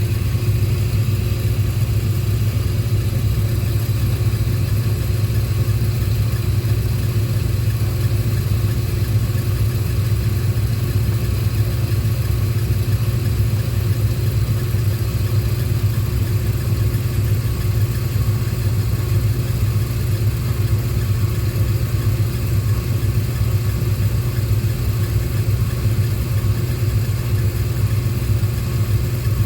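Trane RTWD water-cooled screw chiller running: a steady low drone with a faint steady hum above it, unchanging throughout.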